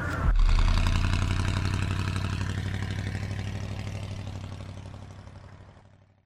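A vehicle engine rises suddenly to a louder, rapidly pulsing run about a third of a second in, then fades away steadily to silence.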